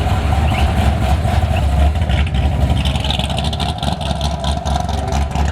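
A car engine running at idle with a deep, hard rumble.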